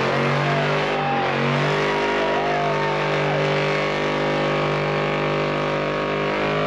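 A truck engine revved and held at steady high revs, its pitch settling early on, with faint voices in the background.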